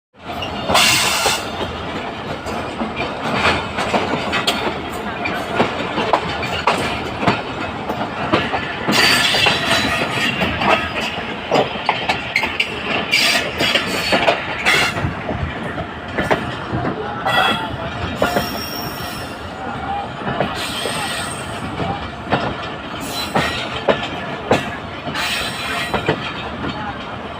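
Train running on the rails, its wheels clattering over the rail joints in many short knocks, with a few brief high wheel squeals in the second half.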